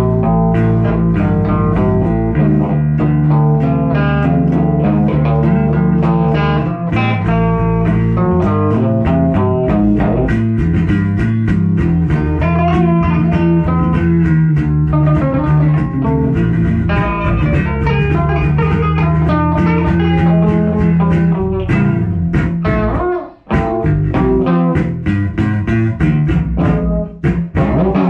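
Guitar and bass guitar music playing, bluesy, with a steady bass line under guitar notes; it breaks off briefly about 23 seconds in.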